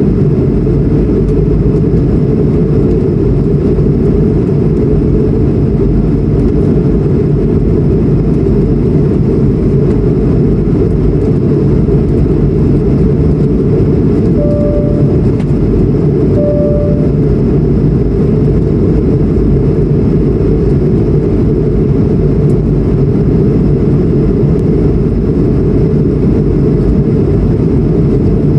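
Steady, loud roar inside the cabin of a Delta Airbus A220-100 in flight, from its Pratt & Whitney PW1500G geared turbofans and the airflow. Around the middle, two short chime tones sound about two seconds apart.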